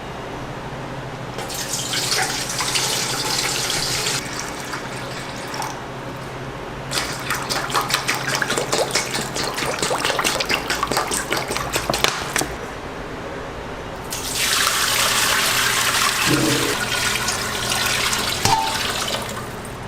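Water running, in three spells of a few seconds each; the middle spell is uneven and spattering, the others a steady hiss. A low steady hum runs underneath.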